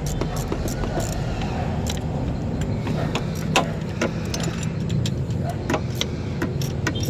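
Engine running steadily with a low hum, over many sharp metallic clicks and clinks.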